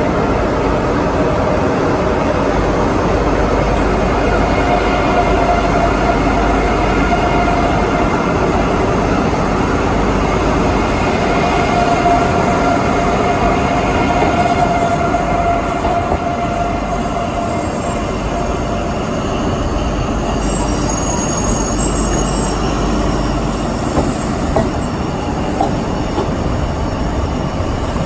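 Two passenger trains, an HST and a Eurostar, running side by side at low speed: steady rolling noise of wheels on rail with a steady whine, and a few high squeals and small clicks later on as the tracks curve apart.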